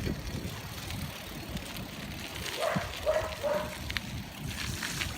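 A dog barking three times in quick succession about halfway through, over a low, rough outdoor background noise.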